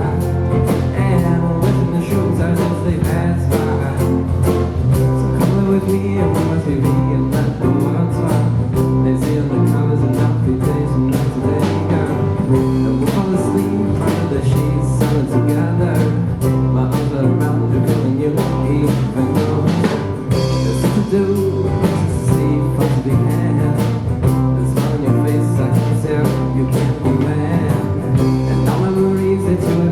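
A band playing a song live, with guitar and bass over a steady drum beat and a singing voice.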